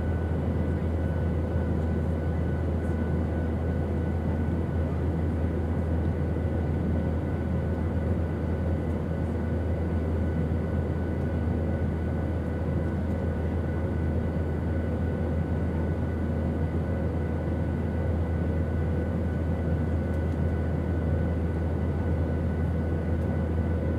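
Steady airplane engine drone: an even, deep rumble with a few faint high steady tones over it.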